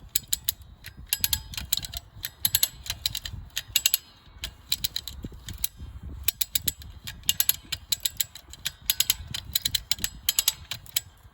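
Hand ratchet winch being cranked in short strokes, its pawl clicking in quick bursts with brief pauses between them, as the line is tightened to pull a partly cut tree over.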